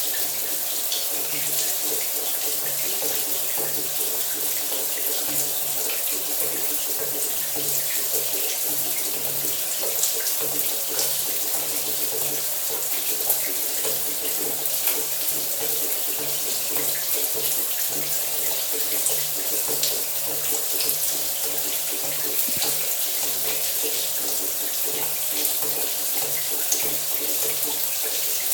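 Shower running: a steady, bright rush of water spray falling without a break, with a faint low hum underneath.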